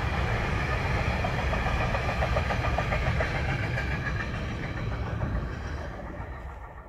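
Container freight train rolling past on the rails, the wheels and wagons rattling steadily, then fading as the end of the train moves away. The sound cuts off suddenly at the end.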